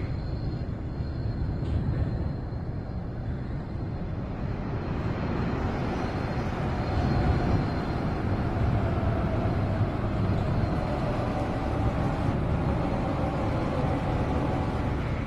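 Seoul Metro Line 2 subway train running, heard inside the carriage as a steady low rumble, with a faint whine that drifts lower from about six seconds in.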